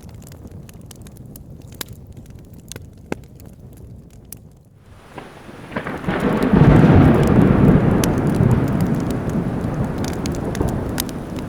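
Wood fire crackling with sharp pops. About five seconds in, rain hiss rises and a loud roll of thunder swells up and rumbles on, slowly fading.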